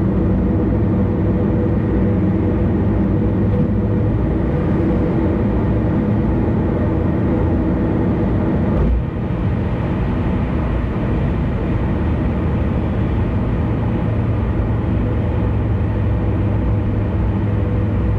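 Car driving at speed on an expressway: a steady drone of road, tyre and engine noise, with a brief dip about halfway through.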